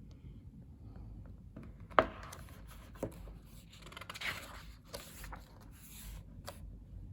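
Paper rustling and handling noises as a photobook's pages are held and moved, with a sharp tap about two seconds in and a softer one a second later.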